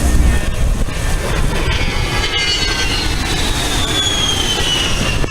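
Jet aircraft flying past, a constant rumble under a high whine that falls steadily in pitch over the last few seconds.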